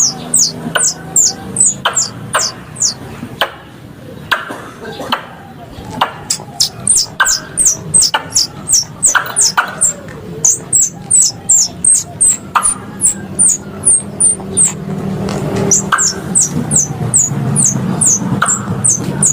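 Squirrel lure call: a fast run of short, high chirps, each sliding down in pitch, about three to four a second, pausing briefly about four seconds in and again near fifteen seconds.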